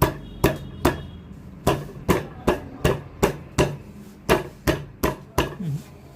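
About a dozen sharp knocks, two to three a second with short pauses, as the DC fan motor is struck to drive its shaft down while its failed bearing is being removed.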